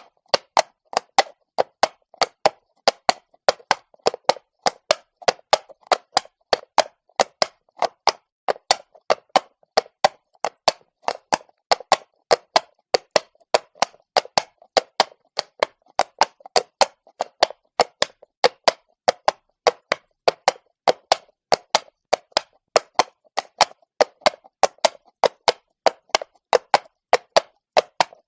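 A horse's hooves striking cobblestones at a walk: a steady, even run of sharp clops, about three a second.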